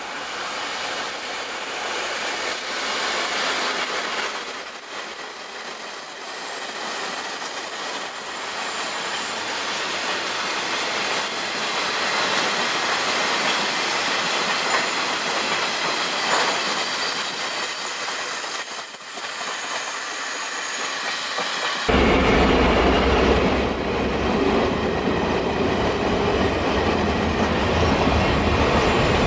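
Taiwan Railways freight train rolling past, a loud, steady running noise of wagons and wheels on the rails. About two-thirds of the way through the sound changes abruptly to a heavier, lower rumble.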